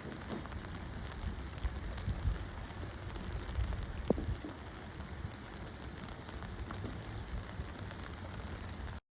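Steady rain falling, an even hiss with scattered drop ticks and one sharper tick about four seconds in; it cuts off suddenly just before the end.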